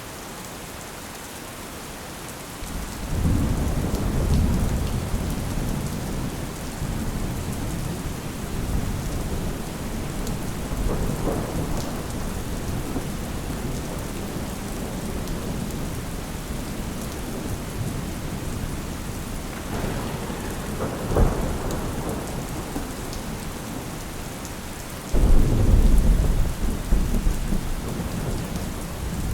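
Steady rain with thunder rolling over it: a rumble building a few seconds in, another with a sharp crack about two thirds of the way through, and a sudden loud clap near the end.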